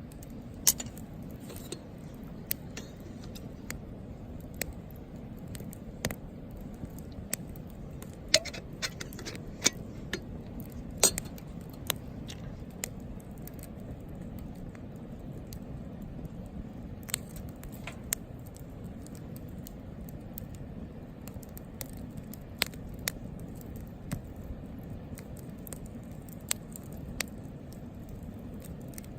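Wood campfire crackling in a Picogrill fire stand: irregular sharp pops and snaps, a few much louder than the rest, over a steady low background.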